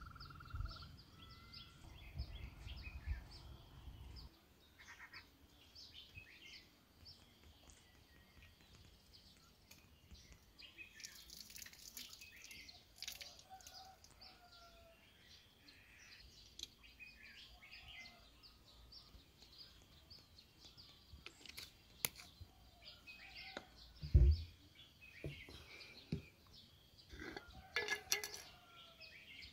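Small birds chirping intermittently over faint outdoor background noise, with a low rumble for the first few seconds. A single dull thump comes a little past the middle, and a few clicks and scrapes near the end.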